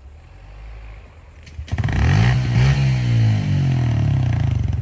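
Honda CRF125F dirt bike's single-cylinder four-stroke engine approaching, faint at first, then loud from under two seconds in as it comes up close, its pitch rising and then falling as the throttle is worked.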